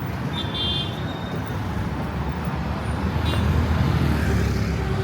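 Street traffic: motor vehicle engines rumbling, growing louder about halfway through as a vehicle comes close. A brief high tone sounds near the start, and a short click comes a little after the middle.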